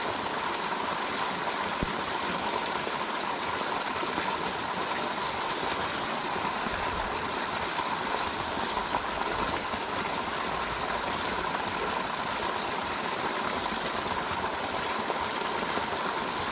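Shallow mountain stream flowing steadily: a constant rush of running water.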